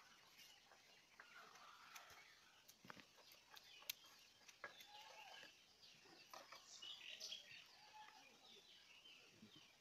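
Near silence: outdoor quiet with faint bird chirps and a few faint clicks.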